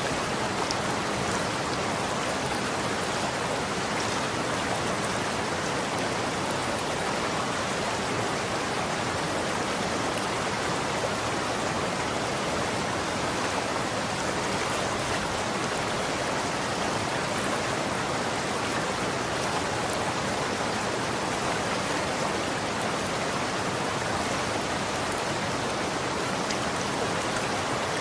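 Running water flowing steadily, an even rushing splash with faint droplet ticks.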